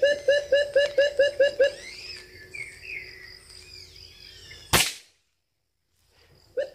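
Birds calling in a tree: a rapid series of identical short hooting notes, about four a second, then higher gliding chirps. About three-quarters of the way through comes a single sharp crack, the PCP air rifle firing, and the note series starts again near the end.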